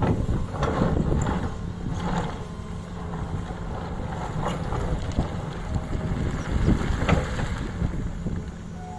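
Tata Hitachi excavator's diesel engine running steadily under load, with scattered knocks and scrapes and wind buffeting the microphone.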